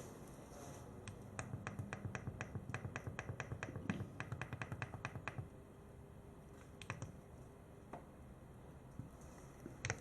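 Rapid run of sharp clicks, about five a second for four or five seconds, then a few single clicks: buttons being pressed on a building's intercom panel to call a resident.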